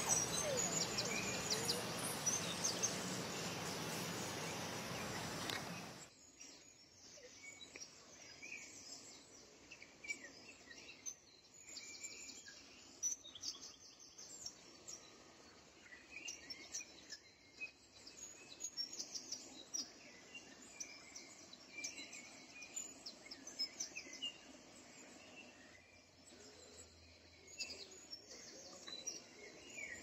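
Wild birds chirping, many short high calls, over a steady outdoor hiss. The hiss is louder for about the first six seconds, then drops suddenly to a quieter background with the chirps scattered through it.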